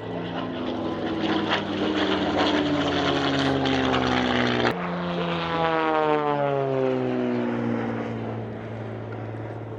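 Propeller-driven aerobatic plane's engine flying past: it grows louder toward the middle, with the engine note sliding steadily lower in pitch as the plane passes and then fades away.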